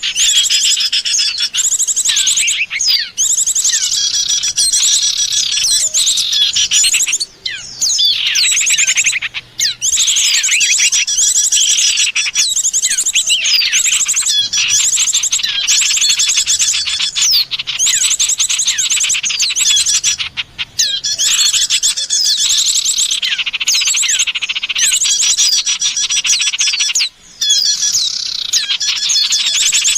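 Dense, nonstop chatter of many small songbirds: rapid high chirps, trills and short sweeping notes overlapping one another, played as a bird-luring call.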